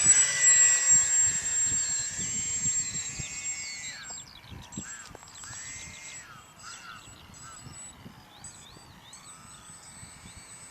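Twin electric motors and propellers of a radio-controlled Multiplex Twinstar II flying boat whining at high throttle. The whine is loud at first, then fades from about four seconds in, its pitch rising and falling with the throttle.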